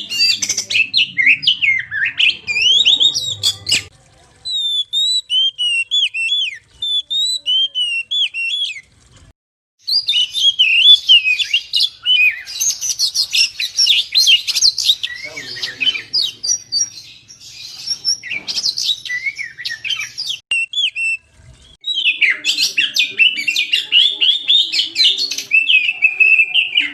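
Oriental magpie-robin (kacer) singing a fast, varied run of chirps and whistles. The song thins to short separate phrases for a few seconds, breaks off briefly twice, and each time resumes dense.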